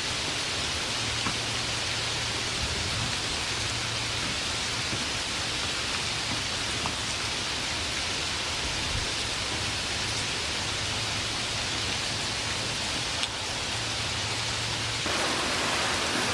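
Steady rain falling, an even hiss with no distinct drops standing out. Near the end it steps abruptly to a slightly louder, fuller rain sound.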